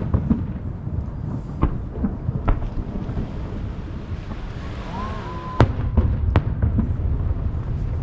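Aerial fireworks shells bursting over the sea: about five sharp bangs. A whistling shell rises in pitch just before the bang a little past halfway. A constant low rumble of echo and wind runs underneath.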